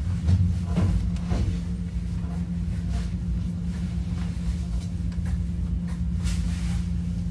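Onboard running sound of a Hankyu 9300 series train: a steady low rumble with a constant low hum. There are a few sharp clacks from the wheels and running gear in the first second or so and again near the end.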